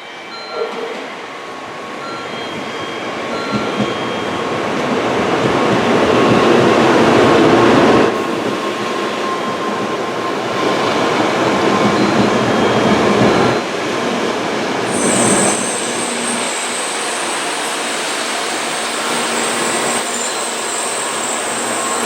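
Tokaido Shinkansen train running along the station platform, its noise building over several seconds and then easing in steps. About fifteen seconds in, a steady high-pitched squeal joins the running noise.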